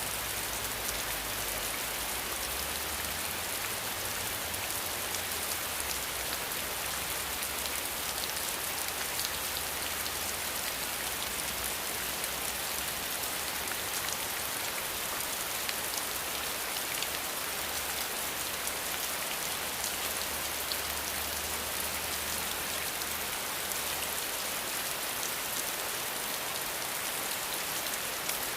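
Steady rain falling, a dense, even patter of many drops hitting a surface, without a break.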